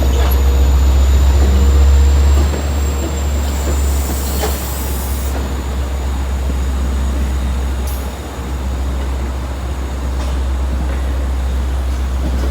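Long Island Rail Road train led by DM30AC locomotive #420 passing through a grade crossing: a steady low rumble of the train rolling by, a little louder for the first two seconds, with a few scattered clicks.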